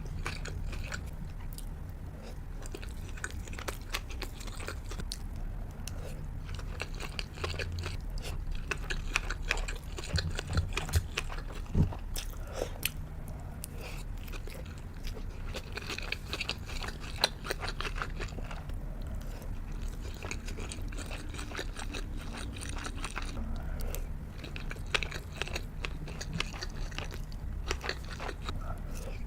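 Close-miked chewing and biting of sushi and sashimi: a steady run of small wet mouth clicks and crackles, with a few louder bites about ten to twelve seconds in.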